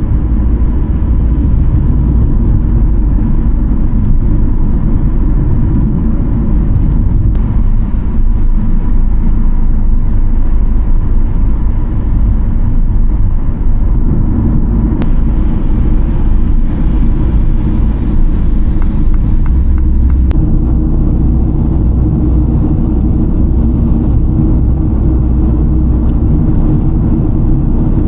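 Car driving on a highway: a steady, loud low rumble of road and engine noise.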